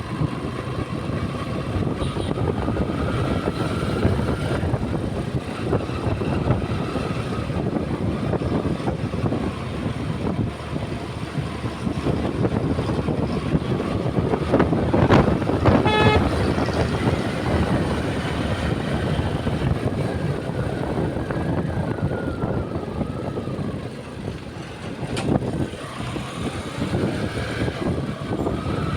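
Motorbike ride through road traffic: a steady rumble of engine and wind, with a vehicle horn sounding briefly about halfway through.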